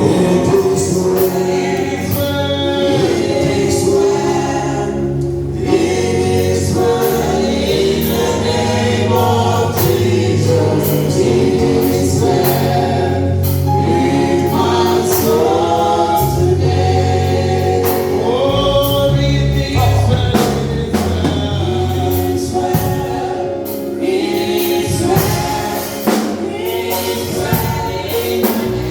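Gospel choir singing with instrumental accompaniment and a steady percussive beat.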